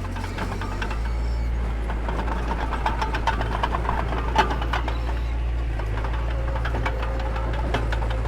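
Diesel engine of a mini bulldozer running steadily, its drone rising slightly about a second in. Sharp metallic clanks and rattles come through, most of them in the middle, with the loudest about four and a half seconds in.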